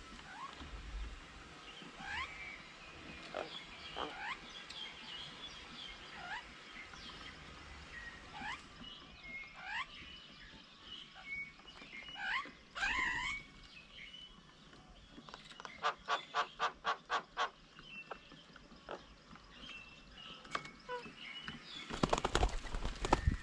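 Wild birds calling at a bird table: many short rising chirps and whistles, with a quick series of about eight rapid pulsed notes a little past the middle. A loud rushing noise comes in near the end.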